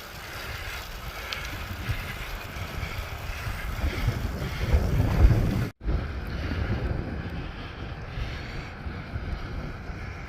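Wind buffeting the microphone of a camera carried on a moving bicycle, a steady rush with low rumbling gusts that grow stronger about four to five seconds in. The sound cuts out completely for an instant just before the six-second mark, then the wind noise resumes.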